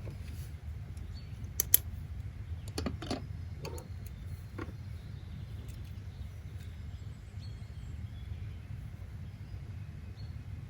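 Steady low background rumble, like white noise, with faint bird chirps. A few sharp clicks or taps come in the first five seconds, the loudest about a second and a half in.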